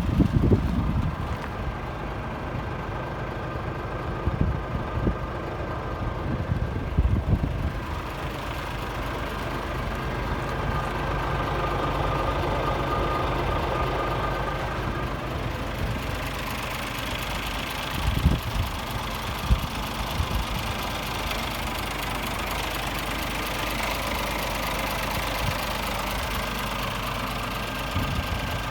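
Scania S500 truck's 13-litre straight-six diesel idling steadily, with a few brief thumps now and then.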